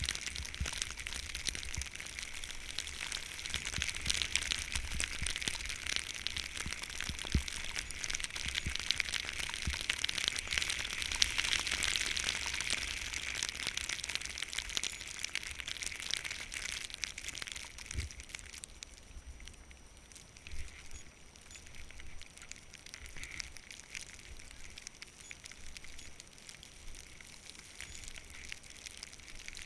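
Skis sliding over snow, a steady scraping hiss with fine crackle, with wind rumbling on the microphone; the hiss drops away about eighteen seconds in.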